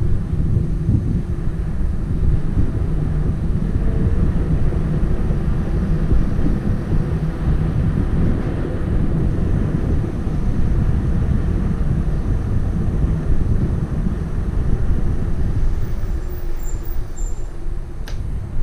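Wind rushing over the microphone of a moving bicycle, a steady loud low rumble; a single sharp click near the end.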